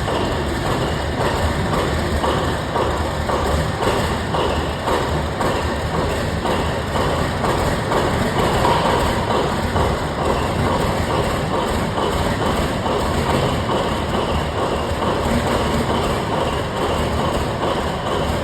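Pielstick 16PA4V sixteen-cylinder V diesel engine running steadily and loudly, with a fast, even pulsing of its firing.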